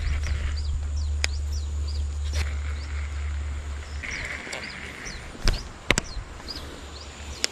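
A bird chirping over and over in short falling notes, over a low rumble that fades out about four seconds in. A few sharp clicks cut through, the loudest two close together about five and a half seconds in.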